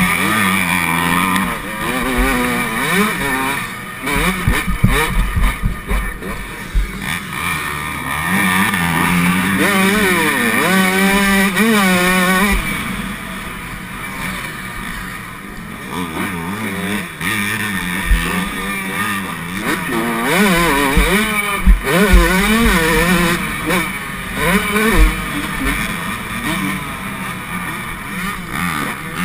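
Yamaha YZ125 two-stroke single-cylinder engine revving up and falling back again and again as the bike is raced through the gears, with sharp knocks now and then.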